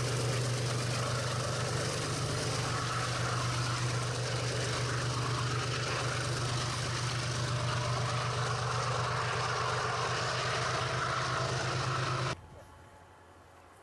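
A steady engine running with a strong low hum, cut off abruptly about twelve seconds in, leaving a much quieter background.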